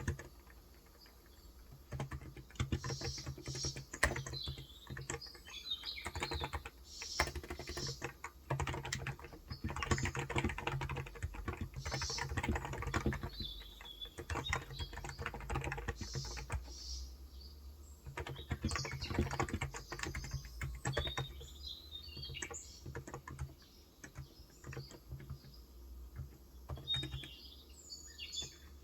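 Typing on a Cox Endeavor electro-capacitive 35 g tenkeyless keyboard: quick keystrokes in bursts with short pauses. Birds chirp faintly now and then in the background.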